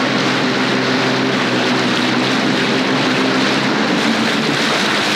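Sea-Doo GTX 300 personal watercraft running at a steady cruise, its engine drone holding over a dense rushing noise.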